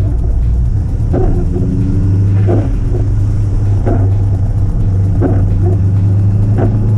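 Subaru Impreza WRX's flat-four engine running at a steady cruise, a constant low drone. A short sound repeats about every 1.3 seconds on top of it.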